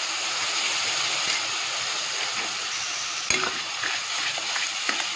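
Ginger-garlic paste sizzling steadily as it fries in hot oil with onions in a pan, stirred with a metal spatula. A single sharp clink of the spatula against the pan about three seconds in.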